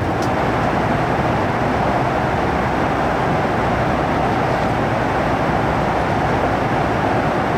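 Steady cabin noise of a Boeing 737 MAX 8 jet airliner, its engines and rushing air heard from inside as an even, unbroken rushing noise.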